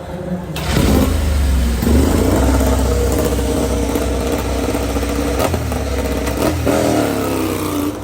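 MotoGP race motorcycle engines running hard, revving with the pitch rising and falling. The sound grows louder about half a second in.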